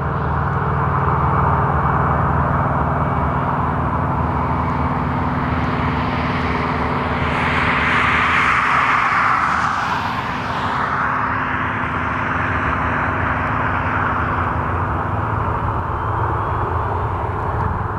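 Boeing 737-800's CFM56-7B turbofan engines at takeoff thrust as the jet departs: a steady jet noise that swells to its loudest about halfway through, then eases off.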